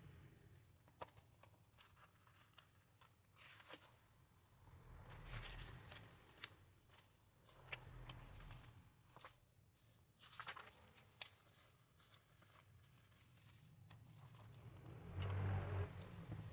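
Faint desk sounds of paper planner work: pages rustling and being handled, with scattered small clicks and taps, and a louder rustle of paper near the end.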